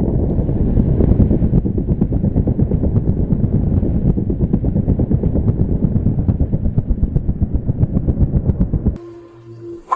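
A loud, rapid, low-pitched rattling clatter of densely packed knocks that cuts off suddenly about nine seconds in.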